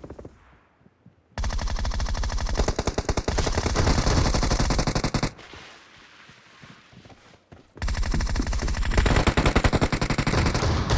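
Video game automatic gunfire: a long burst of rapid machine-gun fire from about a second and a half in until about five seconds in. After a quieter gap it starts again at about eight seconds and keeps going.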